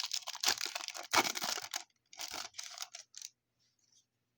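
Trading-card pack wrapper crinkling and tearing as a 1995 Upper Deck SP pack is opened and its cards handled, in several rustling bursts over the first three seconds, then only a few faint clicks.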